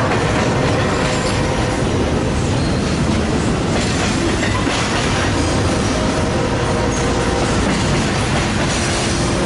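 Freight train cars rolling steadily past close by, wheels clacking over the rail with a light steady squeal of wheels on rail.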